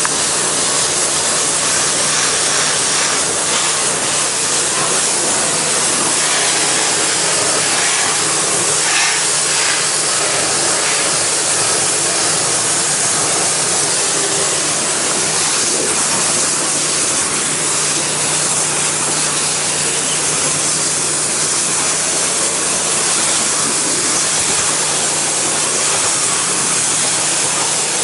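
Pressure washer water spray hissing steadily onto a painted wooden deck at low pressure, rinsing dirt out from between the boards, with a steady low hum underneath.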